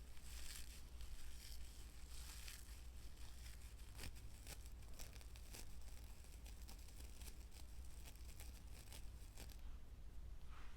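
Close-miked ASMR trigger sounds: an irregular run of short, crisp crackles and scratches from material being handled, over a steady low hum.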